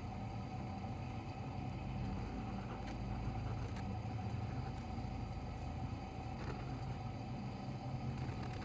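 Steady low background hum with a faint constant tone, and a few faint clicks.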